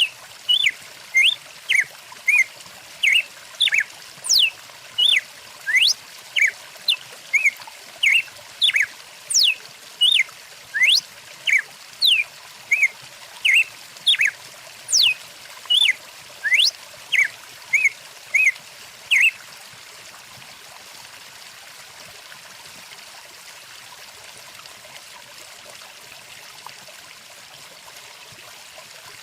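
Birds calling in short, quickly repeated notes, about two a second, some sweeping up or down in pitch, over the steady rush of a flowing stream. The birdsong stops about two-thirds of the way through, leaving only the water.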